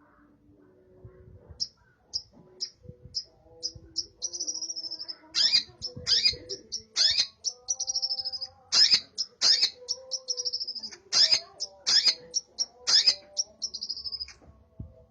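Long-tailed shrike (cendet) singing with Eurasian tree sparrow imitations: a run of short high chirps starting about a second and a half in, then fast trills mixed with loud, sharp chirps through the middle.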